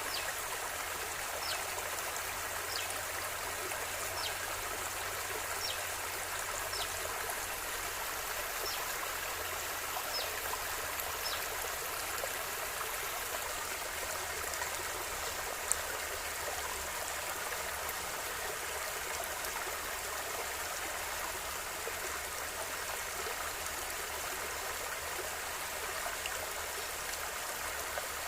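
River water flowing steadily, an even rushing hiss. Over the first ten seconds or so a short high falling chirp repeats about every second and a half, and a single sharp click sounds a little past halfway.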